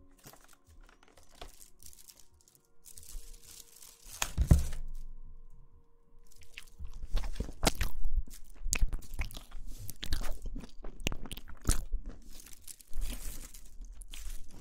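Close-miked ASMR crunching: irregular sharp crunches and crackles with soft low thumps, sparse at first and dense from about four seconds in.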